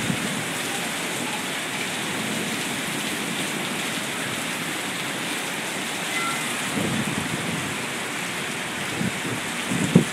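Heavy rain pouring steadily onto pavement, with a few low rumbling bursts in the last few seconds.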